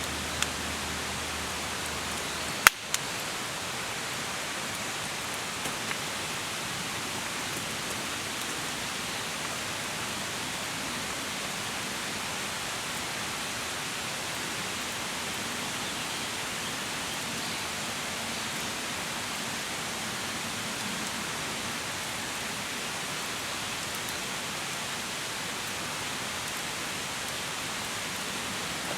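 Steady rain falling, an even hiss, with one sharp click about three seconds in.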